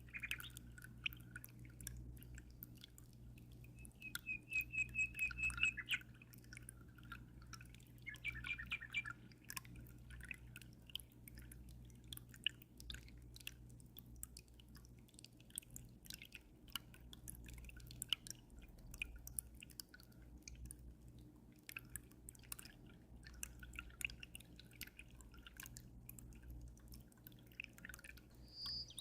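Water dripping in a continuous patter of small drops, over a low steady hum. Birds sing: a rapid trill about four seconds in and a few chirps around eight to nine seconds.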